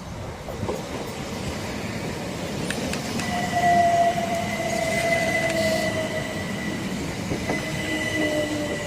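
Class 375 Electrostar electric multiple unit pulling into the platform and slowing, getting louder. A steady high squeal comes in about three seconds in, with a lower whine that falls slowly in pitch as the train slows.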